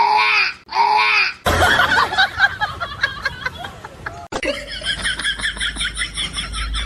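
Two short calls that rise and fall, then people laughing, the laughter turning into a quick run of 'ha-ha' pulses in the second half.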